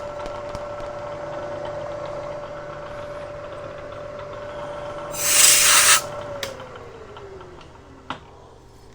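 Bridgeport milling machine spindle running free with a steady whine after the cut. About five seconds in, a loud hiss lasts about a second, like a compressed-air blast clearing chips. The spindle then winds down with a falling whine, and a short click comes near the end.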